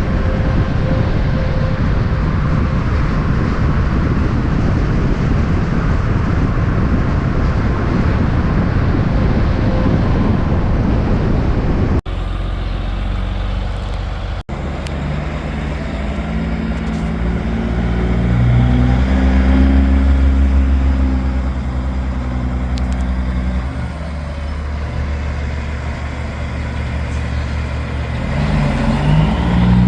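Loud big-rig diesel trucks on the road: a dense mix of engine and road noise first, then after an abrupt cut a truck engine pulling hard, its pitch climbing and falling in steps through gear changes, with another climb near the end.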